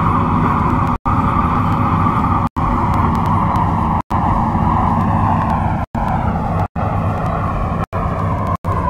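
MTR C-Train electric multiple unit running and slowing for a station stop: wheel and track rumble under a motor whine of several tones that falls in pitch from about five seconds in as the train brakes. The sound drops out for a split second again and again, more and more often towards the end.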